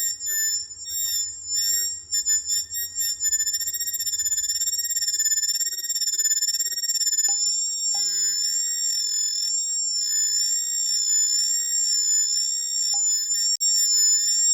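Synthesized tones from a sound-generator app: several high, steady tones warble slightly over a soft low pulse that repeats about twice a second. The tones stutter and break off briefly in the first few seconds, then hold steady.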